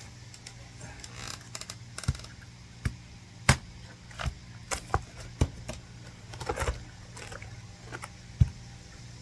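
Hand axe chopping into a damp oak log to split firewood: about ten sharp, irregular strikes starting about two seconds in, the loudest about a third of the way through. The wood is still wet enough that water comes out of it.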